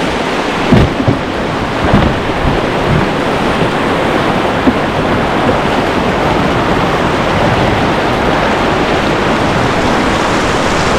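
Whitewater rushing loudly past the pinned canoe, with a few heavy thumps in the first three seconds.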